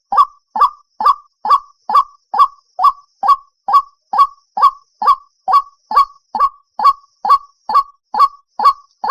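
White-breasted waterhen calling: a steady, unbroken run of short loud calls, a little over two a second, each one dropping quickly in pitch.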